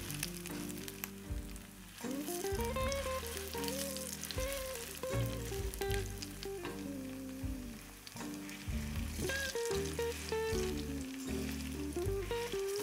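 Patties of grated zucchini and carrot frying in shallow oil in a pan, a steady sizzle, with a melodic background music track over it.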